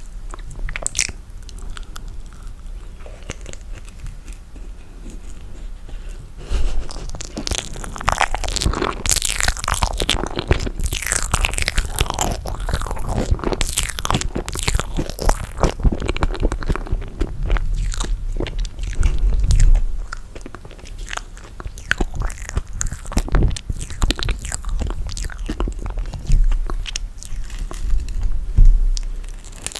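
Close-miked eating of toasted marshmallow: biting and chewing with many small, irregular mouth clicks, getting louder and busier about six seconds in.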